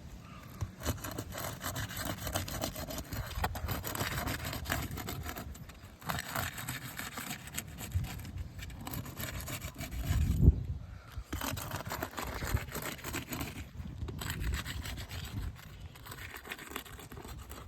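Irregular scraping and rubbing on asphalt roof shingles, with a low thump about ten seconds in.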